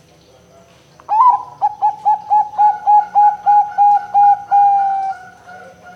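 Zebra dove (perkutut) cooing. About a second in comes a quick run of about a dozen short, evenly spaced notes at one pitch, ending in one longer, slightly falling note.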